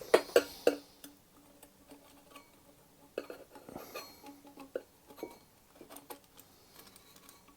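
Metal parts clinking and knocking as they are handled: a quick run of sharp taps at the start, then scattered single clinks, several with a short metallic ring.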